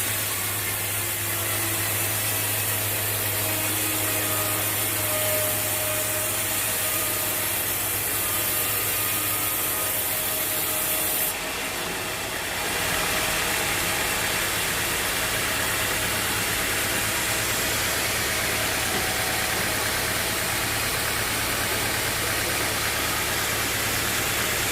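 Sawmill machinery running steadily: an engine's low hum with the noise of the saw working. About twelve seconds in, the hum drops out with a brief dip in level, and a steady rushing noise carries on.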